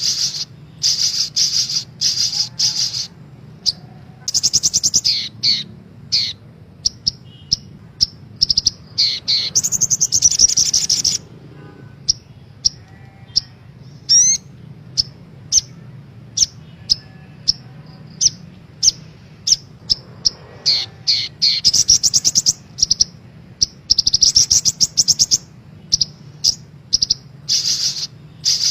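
Sogok ontong (sogon) sunbird song used as a lure recording: bursts of rapid, high-pitched chirps and fast trills, broken by short pauses, over a faint steady low hum.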